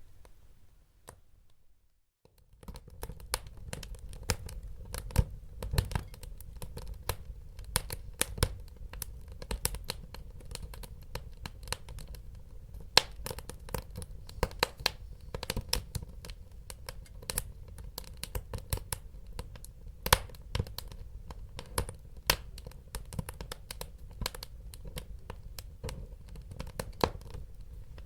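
Wood fire crackling and popping, with dense sharp snaps over a steady low rumble of burning. It starts after about two seconds of near silence.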